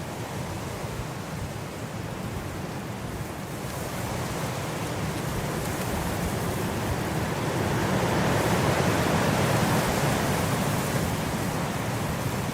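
Blizzard wind blowing in a steady rush that swells into a stronger gust partway through, then eases a little near the end.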